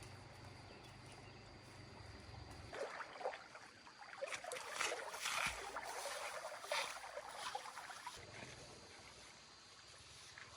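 Irregular splashing and sloshing of water, starting about three seconds in and growing busier in the middle before easing off near the end.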